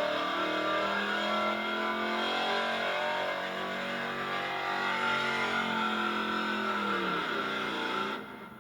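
Altered gas pulling truck's engine held at high revs under load as it pulls the sled, with its pitch sagging about six seconds in. The sound cuts off sharply near the end.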